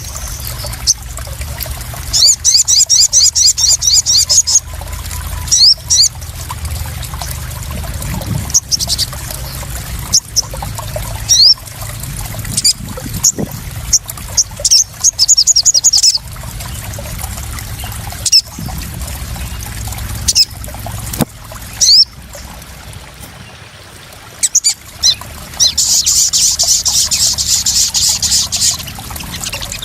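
Water trickling and splashing steadily, overlaid with a small bird's high, rapid trills in three bursts of two to three seconds each and scattered short, sharp chirps.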